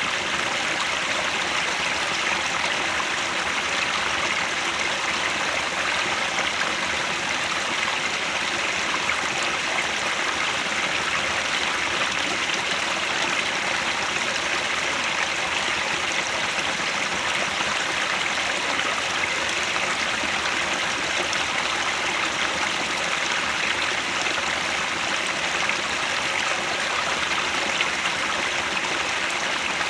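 Headwater stream flowing steadily, an even, unbroken rush of water.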